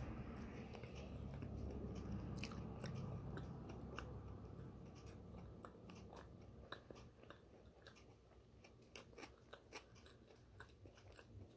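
A person chewing a mouthful of bagel topped with chickpea salad, close to the microphone, with many small wet mouth clicks. It is faint, and loudest in the first few seconds before easing off.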